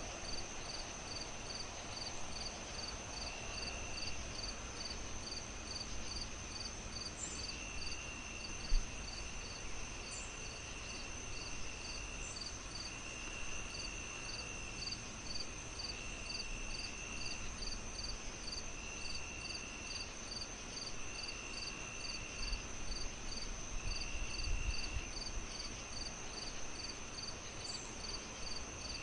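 Fireplace fire crackling, with one sharper pop about nine seconds in. Over it, insects chirp steadily at about two chirps a second, and a higher trill comes and goes every second or two.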